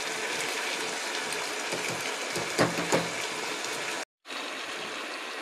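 Steady sizzling hiss of chicken and vegetables frying in the pot, with a few short knocks of the spatula against the pot about halfway through. The sound drops out for a moment a little before the end.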